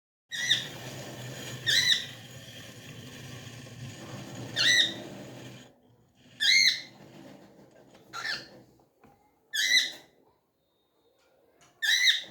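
Pet cockatiel giving short whistled chirps, seven in all, each rising and falling in pitch, spaced one to three seconds apart; the title calls it its happy sound. A steady low background noise under the first half stops abruptly about halfway through.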